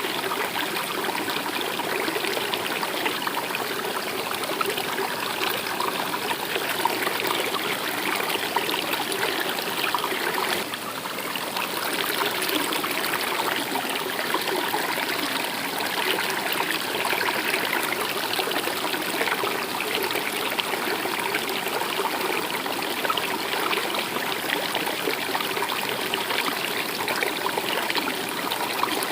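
Stream water running and trickling steadily, with a brief dip in level about ten seconds in.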